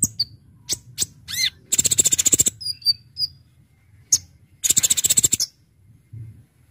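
Kolibri ninja (konin), a small sunbird, singing: sharp high chips and whistles, a quick gliding note, and two fast rattling trills of about a second each, near 2 and 5 seconds in.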